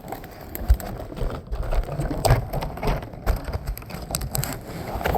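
Footsteps crunching and shuffling through deep snow down a slope, irregular crunches with low thuds underneath.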